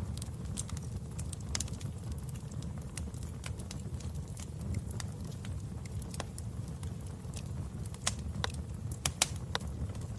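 Wood fire crackling in a fireplace: scattered sharp pops and snaps over a steady low rumble, with a few louder pops near the end.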